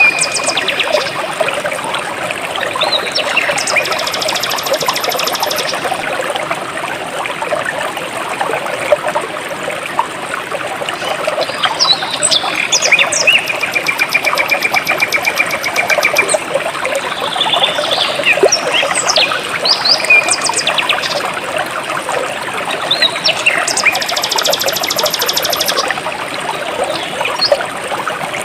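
Jungle stream flowing and trickling steadily, with birds chirping over it. The birds give short sweeping chirps, a few rapid buzzy trills and a held whistle about halfway through.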